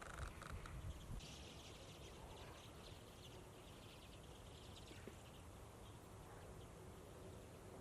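A common redpoll flock twittering faintly, with many short, scattered high calls that are busiest about one to three seconds in, over a low background rumble.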